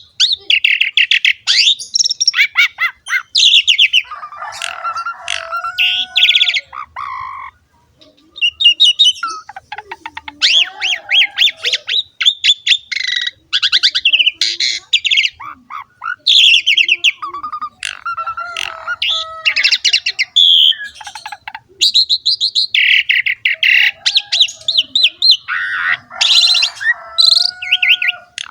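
Asian pied starling (jalak suren) in full, continuous song: a long, varied run of rapid chattering notes and whistles, mixed with lower warbled phrases, with a brief pause about seven seconds in.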